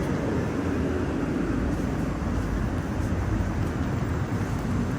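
Metro train running, a steady rumble of wheels and motors.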